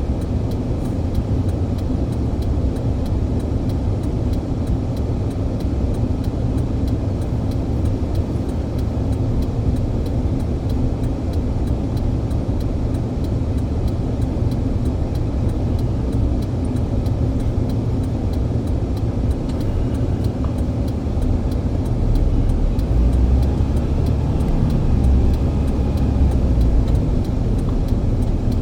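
Steady low rumble of a moving vehicle, getting louder about two-thirds of the way through.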